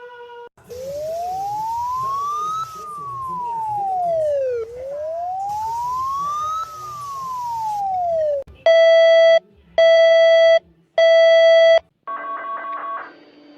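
Synthesized emergency-alert alarm audio: a siren wail sweeping up and down twice over static hiss, then three long loud electronic beeps, then a short stuttering buzzy tone.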